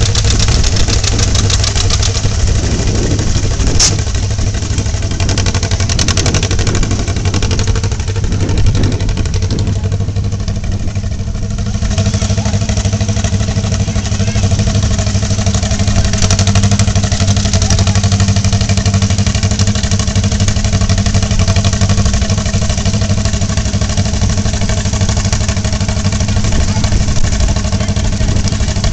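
John Deere tractor engine running steadily, its hum settling to an even pitch about twelve seconds in. A single sharp click comes about four seconds in.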